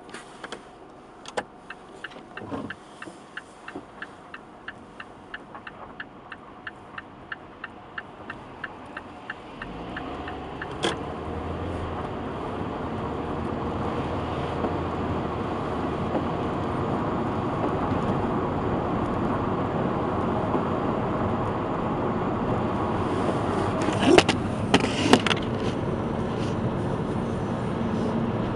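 Mazda 3 BK with steady ticking, about three clicks a second, for the first ten seconds. Then engine and road noise build as the car gets under way, with a couple of sharp knocks near the end.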